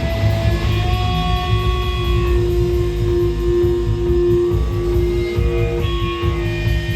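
Live rock band playing an instrumental passage: electric guitars ringing out held notes over bass and drums.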